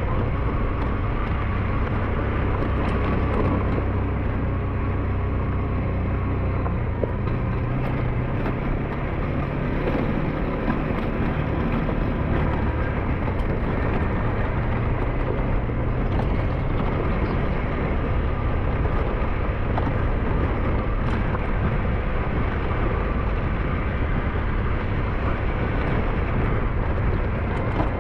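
SYM NHT 200 scooter's engine running steadily while riding, with wind and road noise over it; the low engine note shifts slightly about six seconds in.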